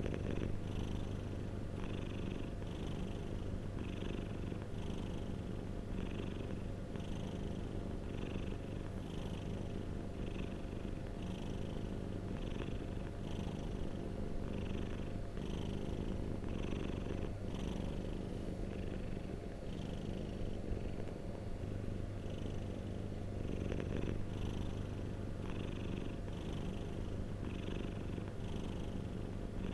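Domestic cat purring close up: a continuous low rumble with a soft, rhythmic pulse about one and a half times a second.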